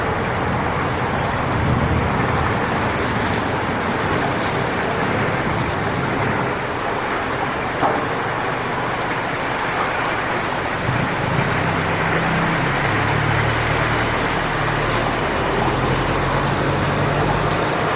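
Strong wind blowing through coconut palm fronds: a steady rushing noise, with a heavier low rumble from gusts in the second half.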